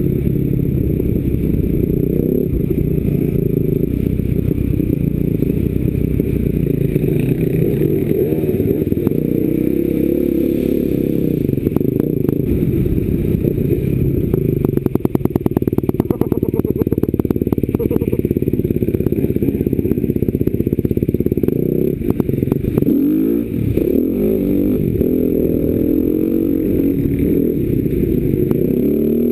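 Enduro motorcycle engine running under way, heard from on the bike, its revs rising and falling as the throttle is worked. About halfway through there is a stretch of rapid rattling and clatter from the bike over rough ground.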